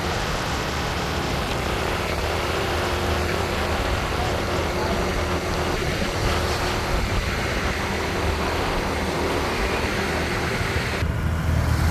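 A motorbike riding through busy city traffic: a steady mix of engine, road and traffic noise.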